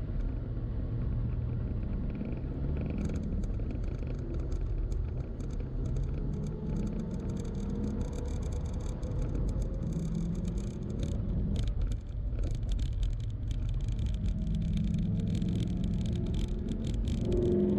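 Car driving, heard from inside the car: a steady engine and road rumble, with the engine note rising and falling as it goes. From about three seconds in there is scattered crackling.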